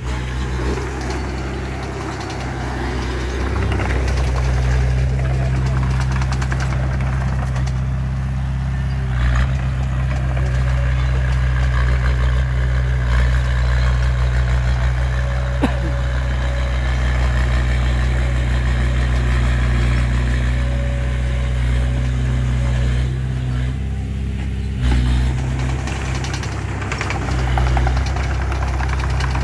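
Bulldozer's diesel engine running steadily under load, with a deep, even drone that eases off briefly a couple of times.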